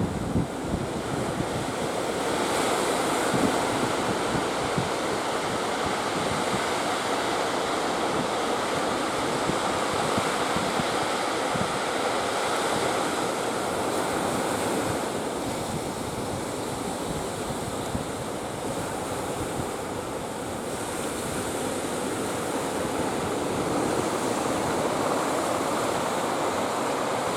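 Ocean surf breaking, a steady rush of waves, with strong wind blowing on the microphone.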